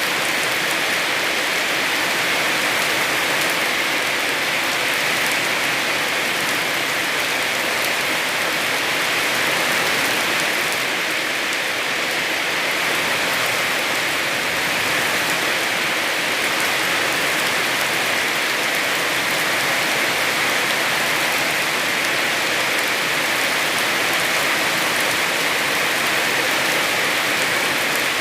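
Heavy rain falling steadily on surfaces, an even, unbroken hiss of drops.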